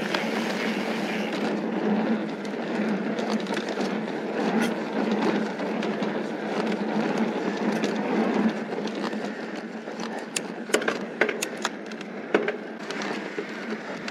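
Mountain bike tyres rolling over a dirt and gravel trail, an even rushing noise for about eight seconds that then drops back. A scatter of sharp clicks and rattles from the bike follows over rough ground.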